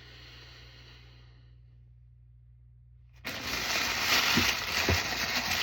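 A soft sniff lasting about a second and a half, then from about three seconds in a loud rustling and crinkling of handled paper or packaging.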